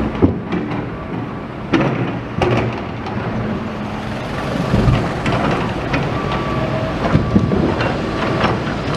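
Engines of traffic and site machinery running steadily, with scattered sharp clanks and knocks.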